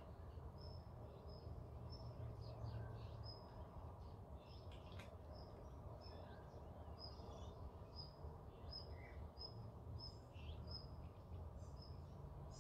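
Faint outdoor ambience: a bird's short, high chirps repeat about twice a second over a low, steady rumble.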